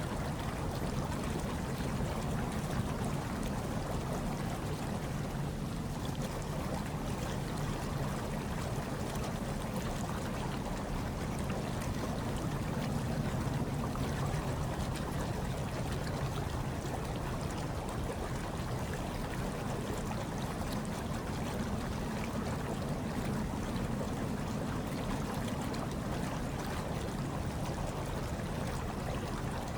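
Hot tub water churning and bubbling in a steady, even rush, heaviest in its low rumble, with no breaks or distinct splashes.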